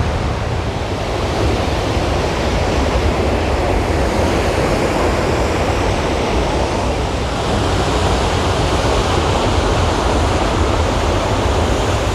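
Large waterfall in heavy flow after a day of rain: a steady, loud rush of falling water.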